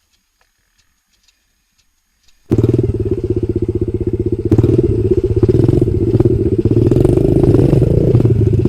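Faint light ticks, then about two and a half seconds in a motorcycle engine suddenly comes in loud, running with a fast, even pulse that gets louder about two seconds later.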